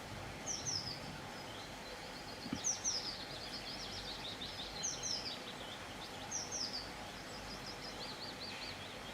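Songbirds singing: short, high falling chirps, often in twos, every couple of seconds, with thin wavering trills in between, over a steady low background hiss.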